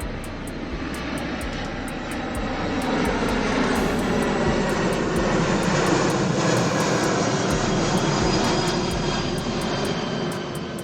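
Jet engine noise from the Boeing VC-25A's four General Electric turbofan engines: a loud, steady roar with a faint high whine, swelling over the first few seconds and easing toward the end.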